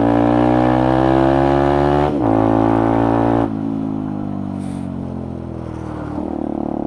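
Benelli TNT 125's small single-cylinder engine under way. It pulls up in pitch through a quick gear change about two seconds in, then the throttle is shut about a second and a half later and the revs fall away before settling to a steadier, quieter note near the end.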